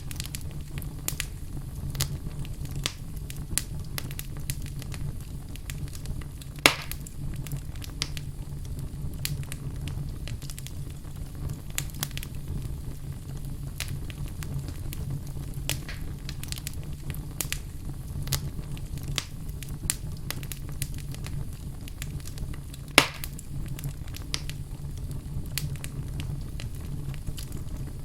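Wood fire burning in a fireplace: a steady low rumble of flame with a constant scatter of small crackles and two louder pops, about a quarter of the way in and near the end.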